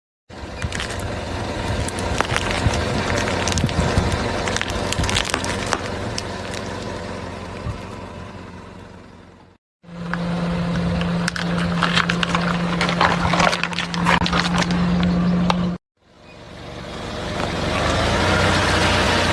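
A car's tyres rolling over and crushing brittle objects: many sharp cracks and crackling snaps over the sound of the car. Two brief cuts to silence split it into three pieces, and the middle piece also carries a steady low engine hum.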